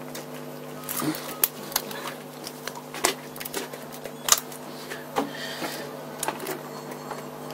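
Irregular light clicks and taps of metal parts and hand tools being handled while carburettors are fitted to a Kawasaki H1 engine, over a steady low hum.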